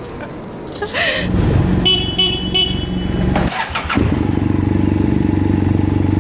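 Yamaha 125Z two-stroke motorcycle engine running with a fast, even pulse, starting about a second in and briefly dropping away near the middle. Short high tones sound around two seconds in.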